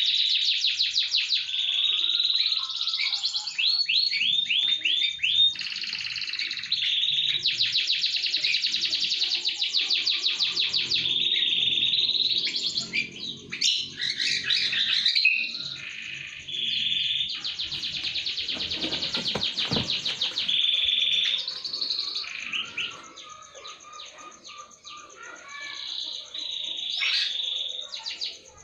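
Canary singing a long, continuous song of fast trills and rolls, rapid repeated notes broken by short whistled phrases, with a softer passage about two-thirds of the way through. It is a lure song, used to set other canaries singing.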